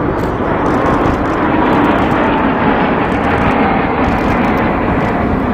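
Airplane flying overhead: a loud, steady engine roar with a faint whine that slowly falls in pitch as it passes.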